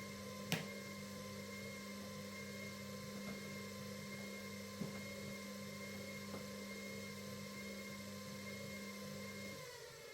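Bauknecht WA PURE ST 14 FLD front-loading washing machine's drum motor turning the drum during its steam self-cleaning cycle: a steady hum with a high whine, a sharp click about half a second in and a few light knocks. Near the end the hum stops and the whine falls away as the motor winds down, the drum slowing before it turns the other way.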